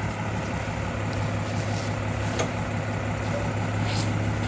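Garbage truck engine running steadily with a low, even hum.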